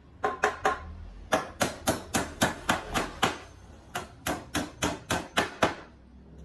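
Rapid hammer blows in three runs: three quick strikes, then about eight and then about seven, roughly four a second.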